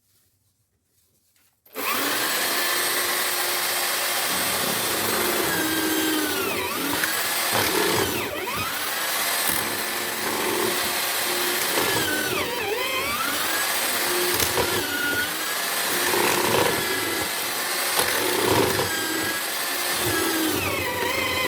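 Homemade drill-powered mortiser starting up about two seconds in and running. Its motor pitch repeatedly sags and recovers as the bit is plunged into the wood to cut a mortise.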